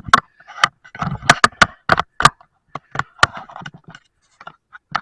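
Irregular sharp knocks, clicks and short scrapes, about a dozen in a few seconds, of tools and metal parts being handled while work starts on the mower deck.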